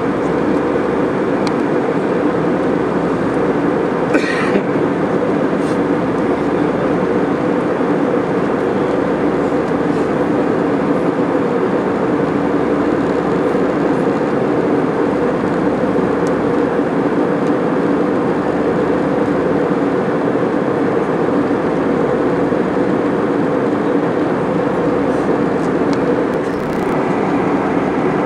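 Steady cabin noise of an airliner in flight: a constant rush of engines and airflow, with a brief click about four seconds in.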